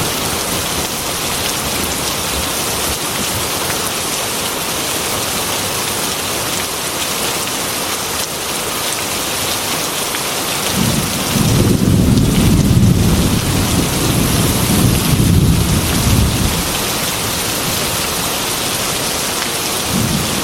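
Heavy rain drumming steadily on a metal roof. About halfway through, a low roll of thunder rumbles for five or six seconds, and another begins near the end.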